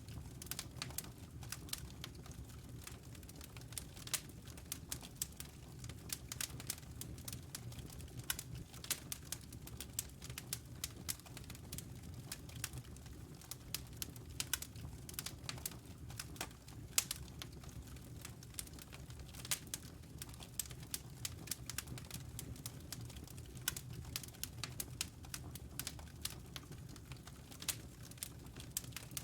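Wood fire crackling in a fireplace: frequent sharp pops and snaps at irregular intervals over a low, steady rumble of the burning logs.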